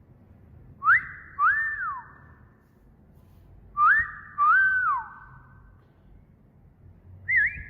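Wolf whistle repeated twice, each a quick rising note followed by a longer note that rises, holds and falls away, with a room echo trailing each one. A third whistle starts near the end.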